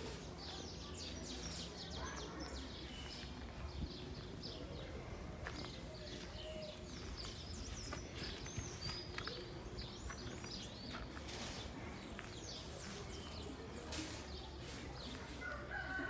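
Birds chirping, many short calls one after another, over a steady low rumble of outdoor background noise.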